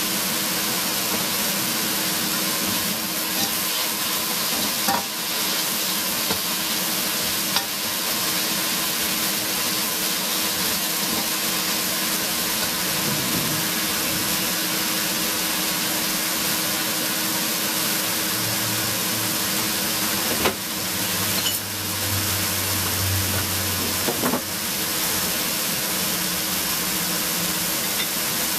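Food frying in a pan, a steady sizzle, with a few sharp knocks scattered through it.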